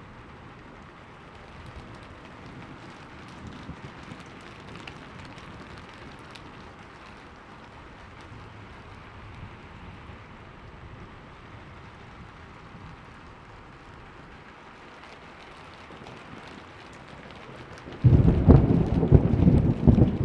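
Steady rain falling. About eighteen seconds in, a sudden loud clap of thunder breaks in and rumbles on.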